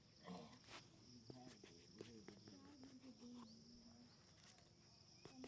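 Very quiet: faint distant voices over a steady high-pitched chirring, with a few light clicks scattered through.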